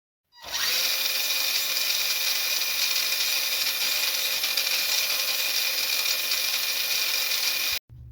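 Small electric motors and gearboxes of a rebuilt Tonka dump truck RC conversion running at a steady speed: an even geared whirr with a high whine. It starts abruptly and cuts off suddenly near the end.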